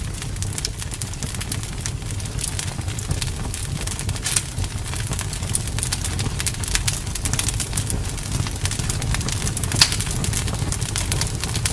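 Campfire burning: a steady low rumble with irregular crackles and pops from the burning wood, one sharper pop near the end.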